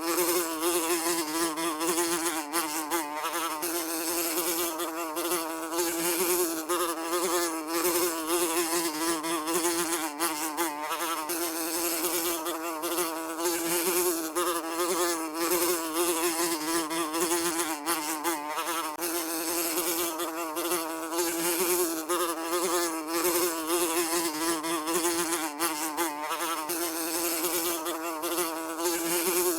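A fly buzzing without a break, a steady droning buzz whose pitch wavers slightly up and down.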